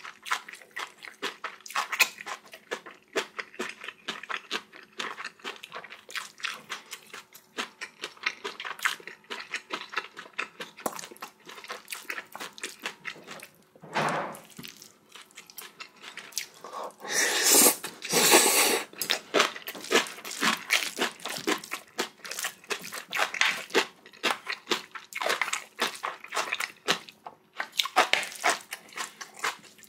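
A person eating close to the microphone: chewing mouthfuls of spicy bibimbap and kimchi, with many small irregular clicks and smacks. A louder, longer stretch of noise comes about 17 seconds in.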